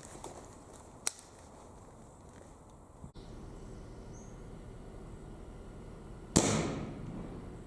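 A single shot from a Weihrauch HW98 .177 spring-piston air rifle about six seconds in, a sharp crack with a short decaying ring. A faint click comes about a second in.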